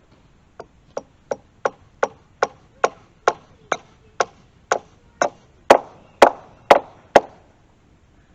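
A steady run of about sixteen hammer blows, roughly two or three a second, during fence repair. The last four blows are the loudest.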